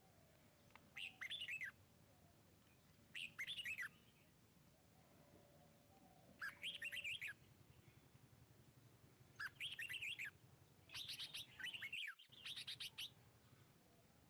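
A bird chirping in short bursts of quick falling notes, one burst every two to three seconds, with the bursts coming closer together near the end.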